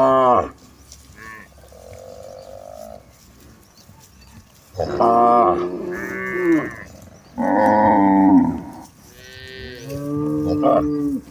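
Several cattle mooing: one call trailing off at the start, then a run of long, loud moos from about five seconds in, partly overlapping, with a last one near the end.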